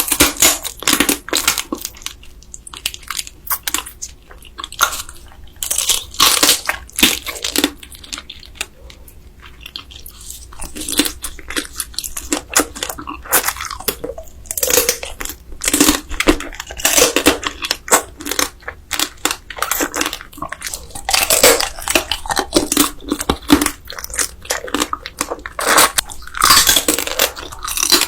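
Close-up eating of spicy marinated raw crab: irregular bites, crunching and wet chewing, in dense runs with brief pauses.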